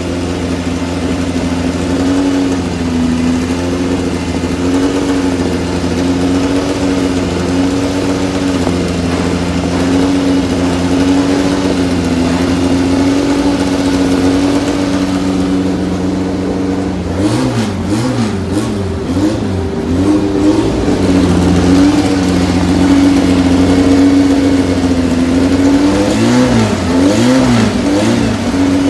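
A car engine idling steadily with a slightly uneven beat. It is blipped on the throttle in quick repeated revs about two-thirds of the way through and again near the end, the pitch rising and falling with each blip.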